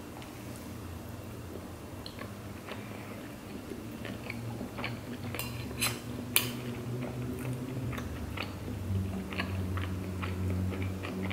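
Close-miked chewing of sushi, with sharp clicks of metal chopsticks against a ceramic bowl, the loudest about six seconds in.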